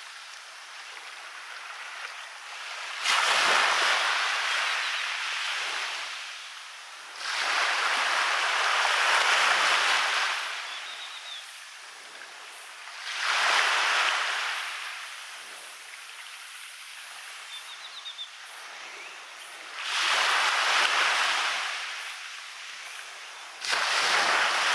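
Waves breaking on a sandy beach and washing up the shore: five surges, each rising sharply into a hiss and then fading, one every four to six seconds.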